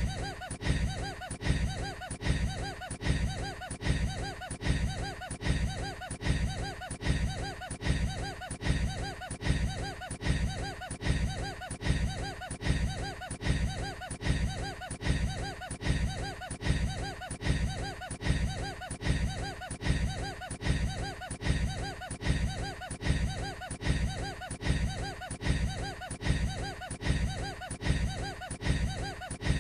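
A man's short, odd laugh, a snicker, looped over and over and repeating identically about every three-quarters of a second.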